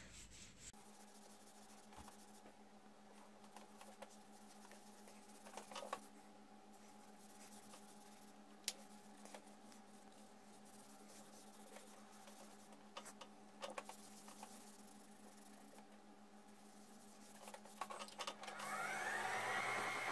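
Steady electrical hum with a few faint rubs and clicks as abrasive paste is worked onto a stopped wood bowl on the lathe. About a second and a half before the end, the lathe motor starts and its whine rises in pitch as it spins up.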